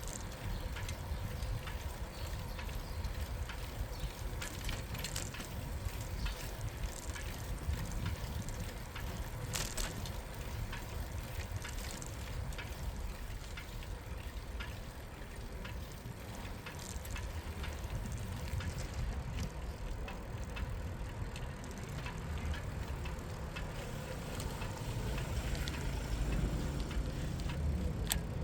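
Street sound heard from a moving bicycle: a steady low rumble of wind and tyres on the road, with scattered light clicks and rattles, a little louder near the end.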